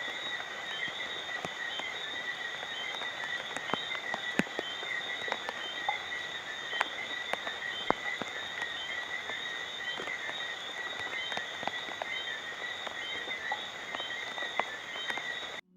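Night rain: scattered drops tapping sharply close by, over a steady high-pitched chorus of calling night creatures. It cuts off abruptly just before the end.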